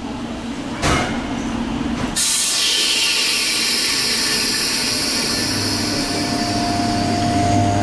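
Electric train at a station platform: a single sharp knock about a second in, then a loud rushing noise that starts suddenly about two seconds in, with a steady electric hum and whine joining from about five seconds in.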